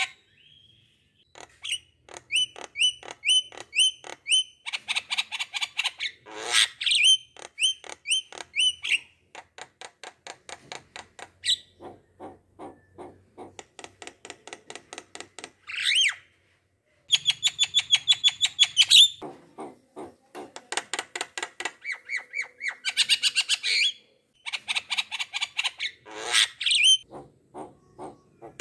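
A songbird singing in fast trills of rapidly repeated short notes, in phrases of a few seconds broken by brief pauses.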